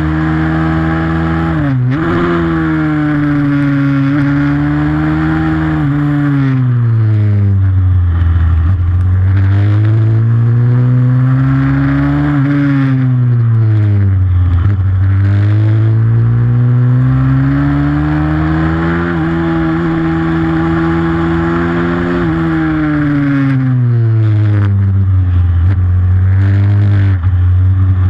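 Pit bike's single-cylinder engine running hard on a supermoto track, its revs repeatedly dropping off and climbing again, held high in between. Quick sharp dips come about 2 seconds in and again near the middle.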